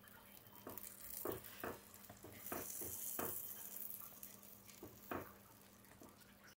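Egg-wrapped bread sandwich frying faintly in a flat pan, with a handful of soft taps and scrapes as it is folded and pressed with a steel spatula.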